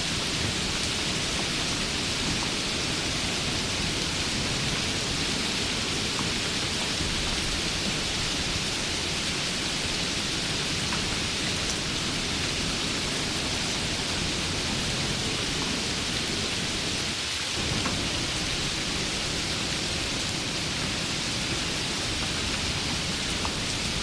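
Steady rain, an even dense hiss with a low rumble beneath it.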